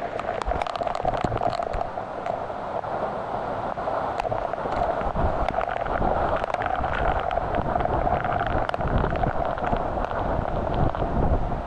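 A vehicle running steadily, with wind rumbling on the microphone.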